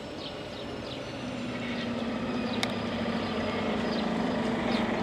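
A motor vehicle approaching, its steady engine hum growing louder from about a second in.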